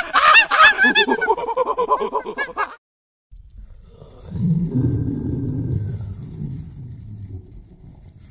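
A monkey's rapid chattering calls, many short high yelps a second, cut off abruptly under three seconds in. After a brief silence a tiger growls low and rough, loudest about a second after it starts, then slowly fading.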